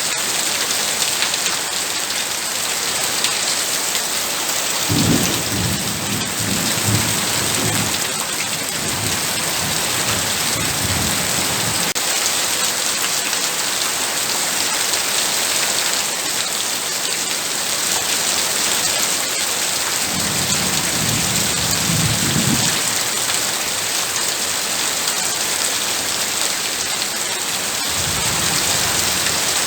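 Heavy rain pouring steadily, with low rolls of thunder rumbling about five seconds in and again about twenty seconds in, and another starting near the end.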